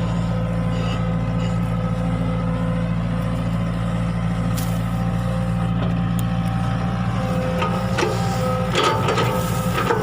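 Excavator's diesel engine running steadily under work, with a few sharp knocks about eight to nine and a half seconds in.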